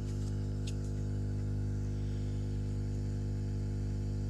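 Steady electrical mains hum, with a couple of faint ticks in the first second.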